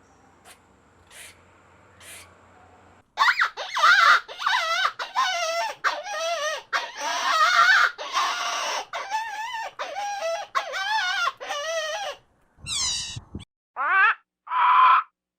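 A few faint chirps, then from about three seconds in a dense run of loud, high-pitched, wavering animal calls one after another. Near the end come a few separate shorter calls that fall in pitch.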